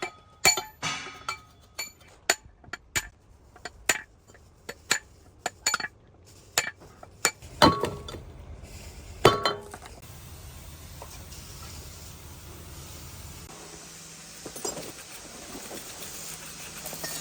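Sharp metallic clinks of metal parts being handled and tapped, a dozen or so irregularly spaced over the first nine seconds, two near the middle louder than the rest; then a steady low hum with a faint hiss.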